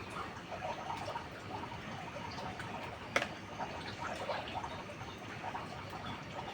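Steady rain with many irregular drips and patters, and a single sharp snap about three seconds in.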